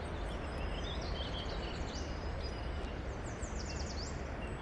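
Steady rushing outdoor noise with songbirds calling over it: a few short chirps about a second in, then a quick trill of about eight descending high notes a little after three seconds.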